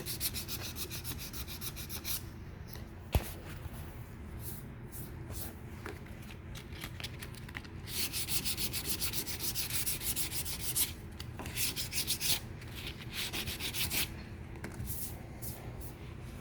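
Hand block-sanding of high-build epoxy primer on a car body, sanding out the orange peel: quick back-and-forth scratchy strokes in spells, with one sharp knock about three seconds in.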